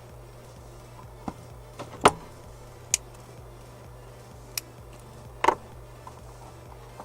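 Small tools and wires being handled on a soldering bench during wire splicing: scattered sharp clicks and knocks, about six of them, the loudest a little after two seconds in and a double knock about five and a half seconds in, over a low steady hum.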